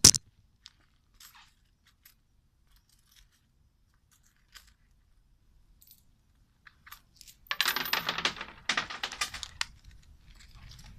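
Coins tossed into a wooden offering box, clattering and rattling down through it for about two seconds past the middle, after a single sharp knock at the start and a few faint ticks.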